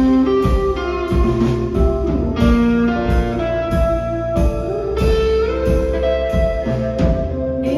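Live music: an instrumental passage with sustained pitched notes over a steady beat, without singing.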